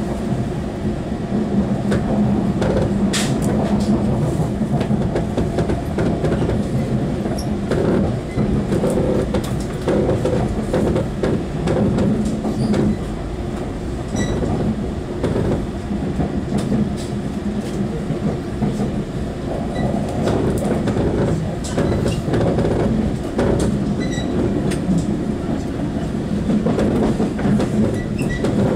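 Interior running noise of a JNR 183/189 series express electric multiple unit, heard from a motor car seat over the bogie. The wheels and running gear hum steadily on the rails, with irregular clicks as the wheels pass rail joints and pointwork.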